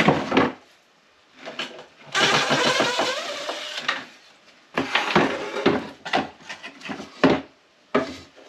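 Cordless power drill running for about two seconds, backing out another screw, followed by a string of sharp clicks and knocks.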